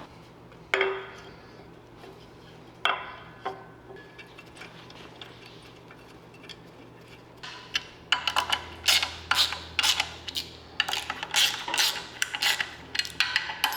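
Metal clutch and pressure-plate parts and hand tools clinking, at first as a few separate clinks with a short ring, then a quick, irregular run of metallic clicks for several seconds near the end.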